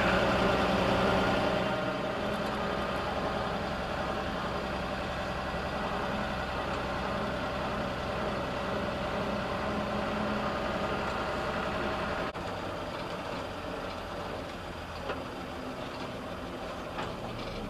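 Old pickup truck's engine running steadily at low speed. The level drops abruptly about twelve seconds in, leaving a quieter low hum.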